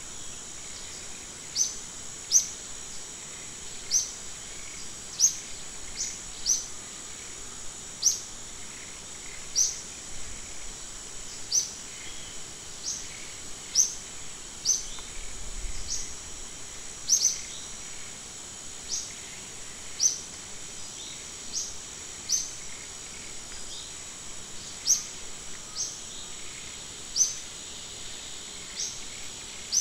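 A bird repeating a short, high, falling chirp about every one to two seconds, over a steady high-pitched insect drone.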